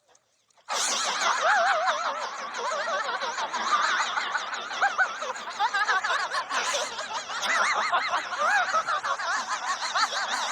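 Many people laughing at once, like a laugh track, starting after a brief silence and running on unbroken.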